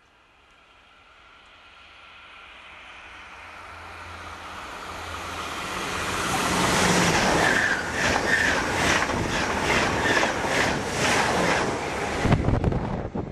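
TGV Atlantique high-speed train approaching on the line: its sound rises steadily for about six seconds, then the train passes at speed with a rhythmic pulse about twice a second as its bogies go by, fading near the end.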